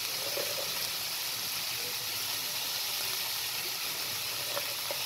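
Onions, tomatoes and green chillies sizzling steadily in oil in a frying pan.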